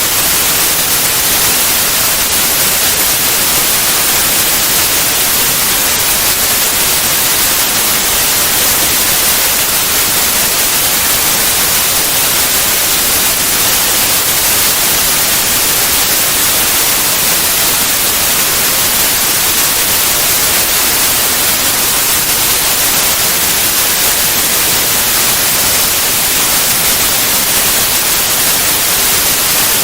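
Steady white noise: an even hiss across all pitches, strongest in the highs, with no change.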